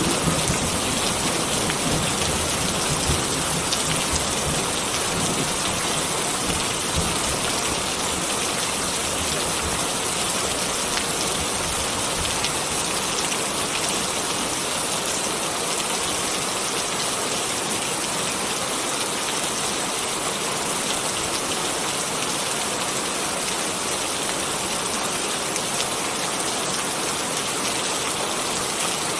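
Steady rain falling, with a low rumble dying away in the first few seconds.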